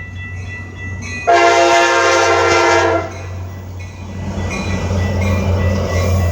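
Nathan K5LA five-chime air horn on an F59PH diesel locomotive sounding one loud blast of under two seconds, about a second in, over the steady ring of Safetran high-pitch electronic crossing bells. The approaching train's rumble grows louder near the end.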